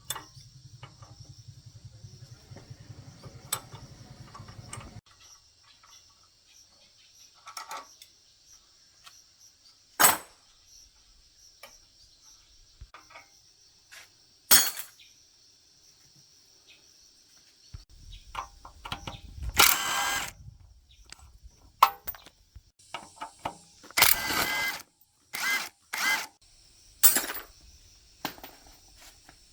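Workshop tool work on a motorbike: a low power-tool hum for the first five seconds, then scattered sharp clicks and knocks, and several short hissing bursts in the second half.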